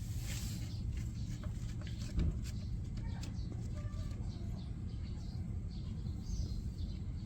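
Outdoor background: a steady low rumble with scattered small clicks, a few faint short chirps, and one low thump about two seconds in.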